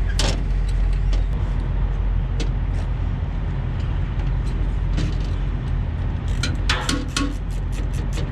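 Steady low rumble of idling diesel truck engines, with intermittent metallic clicks and clinks of hand tools on the truck's parts, including a quick run of clicks about two-thirds of the way in.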